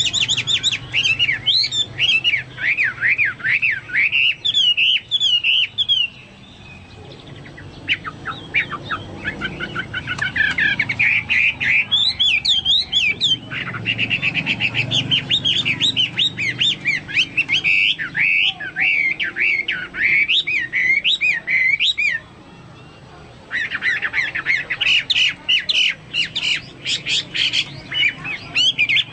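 Chinese hwamei singing vigorously in long, rapid warbling phrases of rising and falling notes, with two short breaks. It is a song that recalls a cucak Papua or cucak mas (leafbird).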